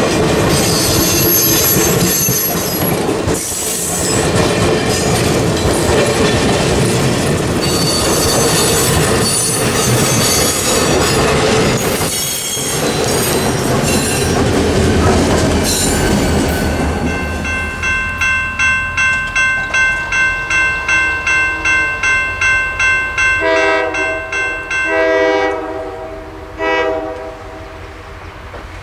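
A diesel-hauled passenger train rolling past a road crossing: wheels clacking over the rail joints, with high wheel squeal, and the locomotive going by near the end. As the train clears, a crossing bell rings about twice a second, and short train horn blasts sound twice, with one more shortly after.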